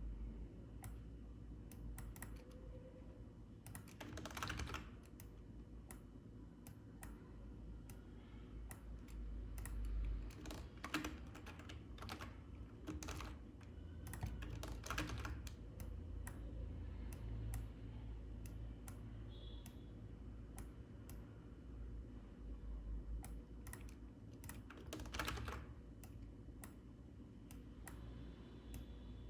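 Computer keyboard keystrokes and clicks, irregular and in short scattered clusters, over a low steady hum.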